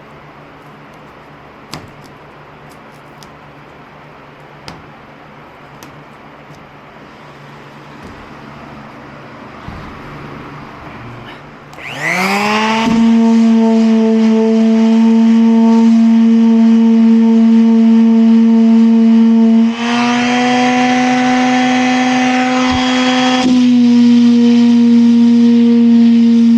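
Faint handling clicks and rustling, then, about twelve seconds in, an electric sander spins up with a quick rising whine and runs steadily. Its tone shifts slightly twice.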